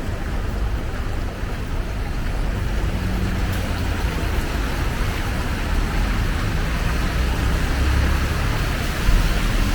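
Steady rain with road traffic on wet streets: an even hiss over a low rumble of passing vehicles, which grows a little louder toward the end.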